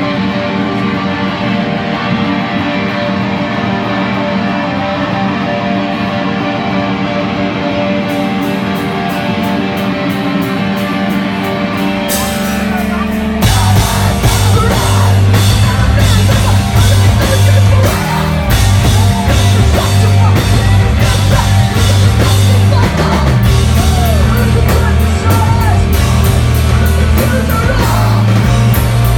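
Hardcore punk band playing live: a held, ringing electric guitar chord with cymbal taps joining partway through. About halfway in, the full band crashes in loud with distorted guitars, bass and pounding drums.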